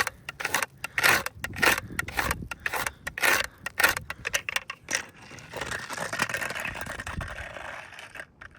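Stiff brush scraping across an asphalt composition shingle in quick repeated strokes, about three a second, then one longer steady scrape in the last few seconds. It is a granule-loss test on a shingle disturbed by a repair attempt.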